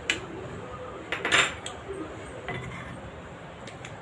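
Cutlery and dishes clinking as a plate of food is handled: a few sharp clinks, with a louder scraping clatter about a second and a half in.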